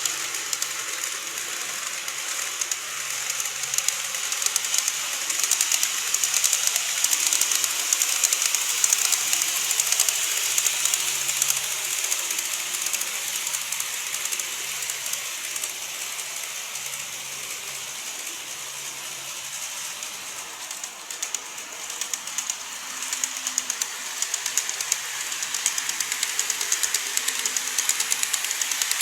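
Model train running on its track: a steady high whirr with a rapid stream of small clicks from the wheels on the rails, getting a little quieter about two-thirds through and then louder again.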